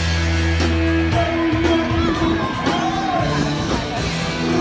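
Live rock-style music with a singer and guitar, a steady bass line underneath.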